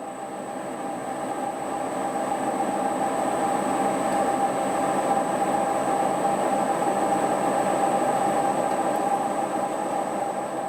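Lagun G-Cosmos 20 CNC bed mill running, a steady mechanical whine with a hum under it, growing louder over the first few seconds, then holding and easing slightly near the end.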